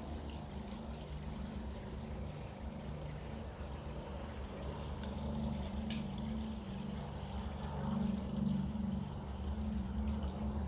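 Water trickling steadily, as from a small water feature where birds drink and bathe, over a low rumble, with one sharp click about six seconds in.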